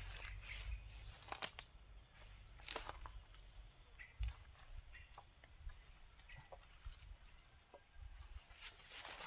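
A steady chorus of insects at several high pitches, with scattered small clicks and rustles.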